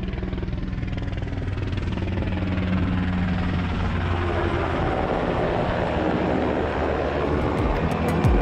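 Boat engine running steadily with a low drone, picking up a little a few seconds in. Music comes in near the end.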